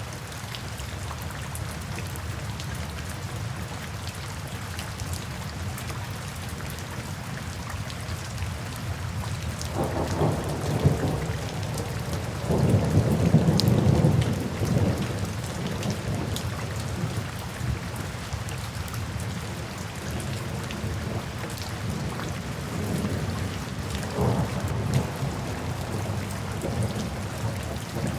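Steady rainfall with thunder rumbling: a low roll about ten seconds in, a louder, longer one just after, and a smaller rumble near the end.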